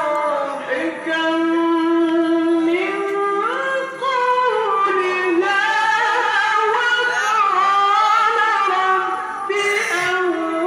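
A male qari chanting Qur'an recitation in long, ornamented melismatic phrases, the voice held high and gliding and wavering between notes, in the high third level of maqam Rast.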